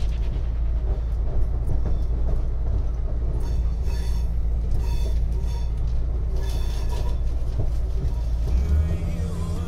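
Passenger train running, a steady low rumble with a few short high ringing tones about halfway through. The low rumble shifts near the end.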